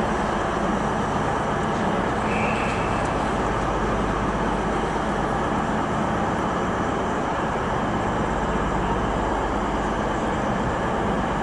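Class 221 Super Voyager diesel multiple unit standing at the platform with its underfloor diesel engines running steadily, ready to depart.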